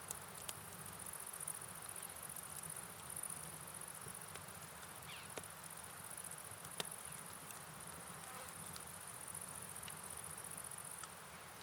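Crickets chirring steadily in a high-pitched trill over a soft hiss of rain and flowing water, with a few scattered sharp clicks, the loudest about seven seconds in.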